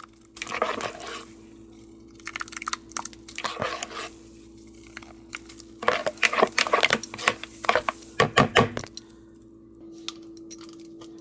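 Kitchen utensils and dishes clattering and scraping in irregular bursts, busiest in the second half, over a steady low hum.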